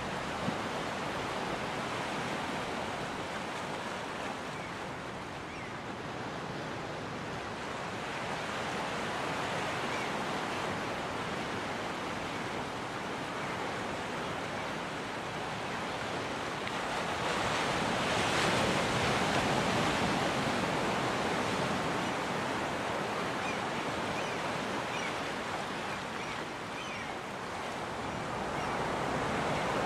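Ocean surf breaking and washing onto a beach, a steady rush that swells louder a little past halfway and again near the end.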